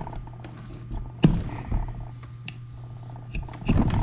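Rubber tire bead being levered over a Onewheel's metal hub with a screwdriver: scattered creaks and clicks, a sharp knock about a second in, and a flurry of knocks near the end.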